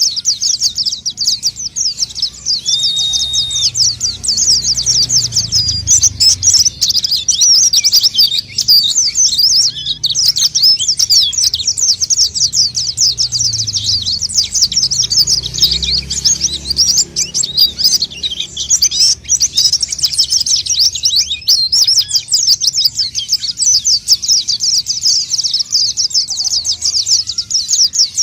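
White-eye (pleci) in full song: a fast, unbroken stream of high twittering chirps, used as a lure call for trapping the birds. A brief steady whistle comes in about three seconds in.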